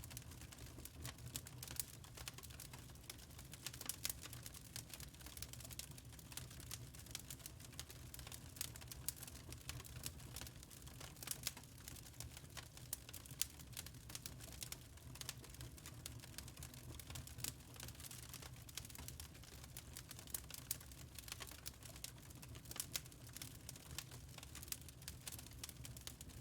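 Wood fire in a fireplace crackling, with frequent small irregular snaps and pops over a low steady hum.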